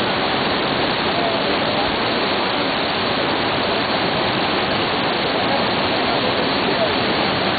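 Steady rushing of a tall waterfall's falling water.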